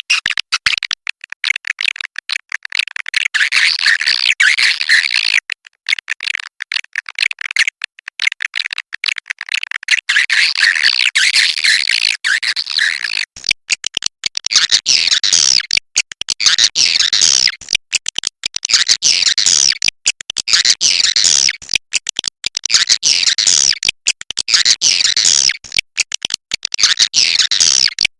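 Cave swiftlets calling: dense, overlapping chattering and twittering chirps, broken again and again by abrupt short gaps. The chorus thins for a few seconds around a quarter of the way in, then comes back thick.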